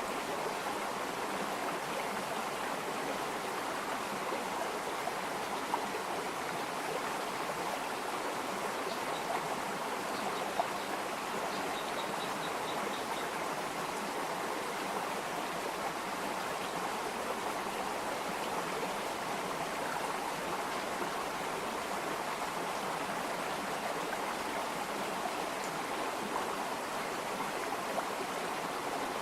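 Water running steadily in a stream: a continuous, even rush of flowing water, with a few faint high chirps about a third of the way in.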